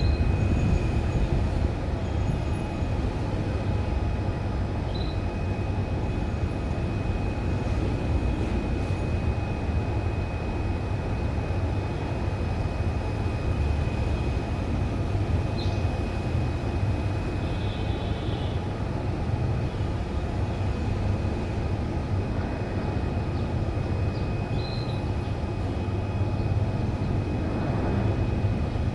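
Steady low rumble with a faint steady high whine, and a few short, faint bird chirps scattered through it, a handful in all, rather than continuous canary song.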